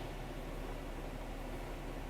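Steady low rumble and hiss of a car on the move, as picked up by a dashcam microphone.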